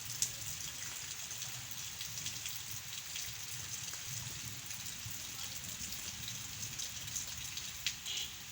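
Heavy rain falling steadily, an even hiss with individual drops ticking sharply now and then, most noticeably near the start and near the end.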